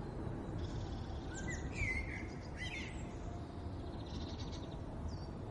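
Birds chirping in short rising and falling calls, most of them a couple of seconds in, over a steady low background noise.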